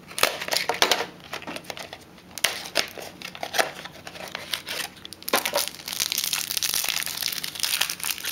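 A trading-card pack wrapper being torn open and crinkled by hand: a run of sharp crackles that turns into dense, continuous crinkling about five seconds in.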